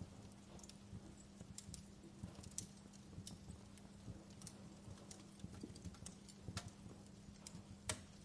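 Wood fire crackling in a fireplace: faint, irregular pops and snaps, with one sharper snap near the end, over a steady low hum.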